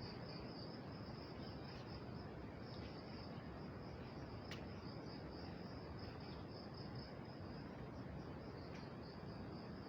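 Steady high-pitched insect chirring, an even continuous trill with a fast pulse, over quiet outdoor background; one short click about halfway through.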